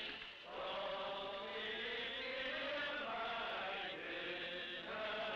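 Many voices chanting together in long held notes, phrase after phrase with short breaks between, on a thin early sound-film recording.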